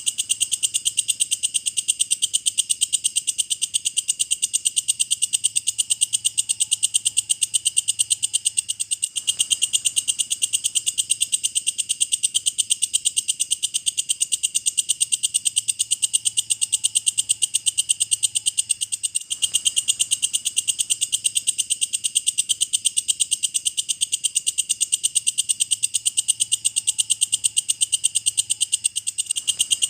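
Walang kecek (belalang kecek) singing: a steady, rapid, high-pitched buzzing trill of even pulses, broken by brief pauses about 9 and 19 seconds in, played as a master song for lovebirds.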